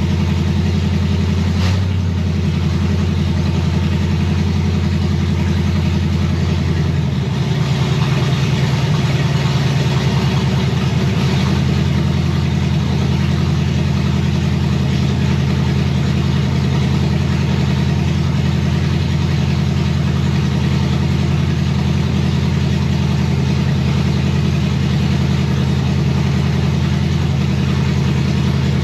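Chevrolet 327 small-block V8 running steadily at idle. Its note shifts about seven seconds in and briefly picks up, then settles back into an even idle.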